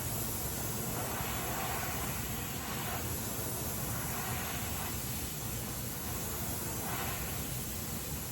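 Gas welding torch flame hissing steadily while aluminium is flame welded, with a brighter layer in the hiss that swells and fades every second or two.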